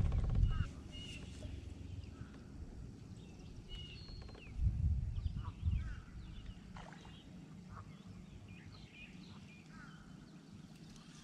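Birds chirping and calling around the water, many short scattered notes. Low bumping rumbles from the kayak and its handling come near the start and again around five seconds in.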